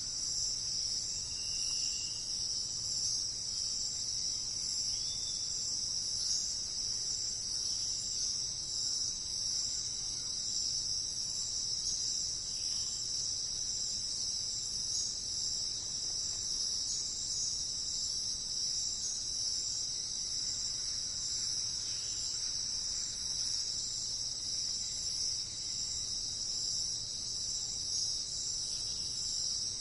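A steady, unbroken chorus of insects, a dense high shrill that does not let up. A few faint, short bird calls sound through it now and then.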